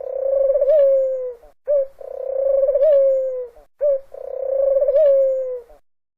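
Dove cooing: three calls about two seconds apart, each a short note followed by a longer drawn-out note that wavers and then falls slightly at the end.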